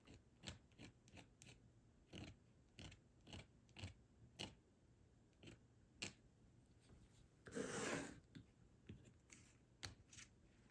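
Faint, irregular scrapes and light taps of a palette knife spreading cream paste across a plastic stencil, with one longer, louder scraping rustle about three-quarters of the way through.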